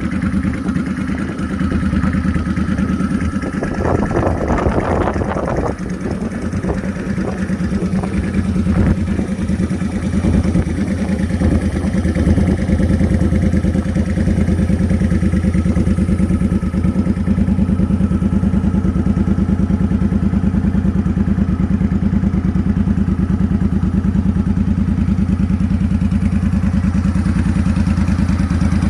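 Motorcycle engine running steadily at idle, with a brief burst of noise about four seconds in.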